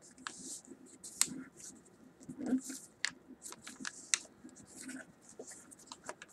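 Sheet of paper being folded and creased by hand: irregular crinkling rustles and sharp little crackles.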